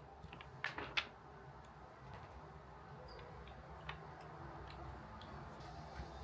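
Light clicks and taps of small objects being handled, with two sharper clicks close together about a second in and a few fainter ones after, over a low steady room hum.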